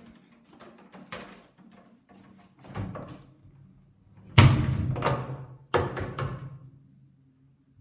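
A door being banged and handled: a string of knocks and clatters, then a loud slam about four and a half seconds in, followed by a low drawn-out creak and two more bangs.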